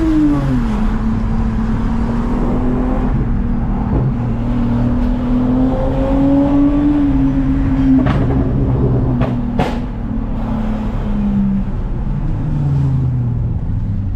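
Toyota Mark X's V6 with a modified exhaust running under way. Its note drops at the start as the revs fall, then holds steady, climbs a little and eases off again later. A couple of sharp clicks come about two thirds of the way through.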